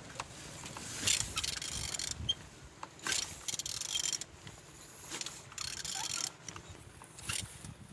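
BMW N46B20A inline-four petrol engine being turned over by hand, in about four rasping, rubbing strokes; it turns over well.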